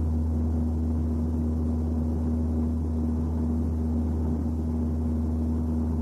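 Steady low vehicle drone with a constant humming tone above it, holding unchanged throughout.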